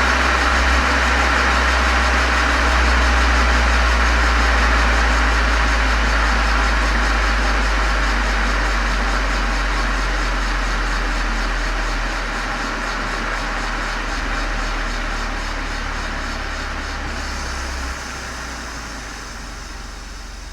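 Exhaust of a Golf 7 GTI's turbocharged four-cylinder through a Cox aftermarket muffler and chamber, heard from outside behind the car: a steady deep drone under a noisy rush, slowly getting quieter with a small drop near the end.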